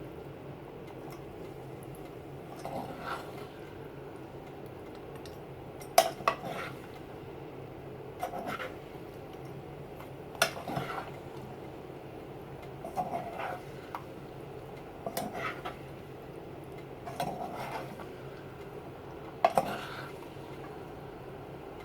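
A utensil stirring and tossing vegetables in a pan, with a clank or scrape against the pan about every two seconds, over a steady low hum.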